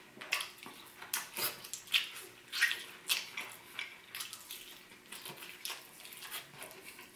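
Close-up wet chewing and lip smacking of a mouthful of roast chicken, with irregular soft smacks about twice a second.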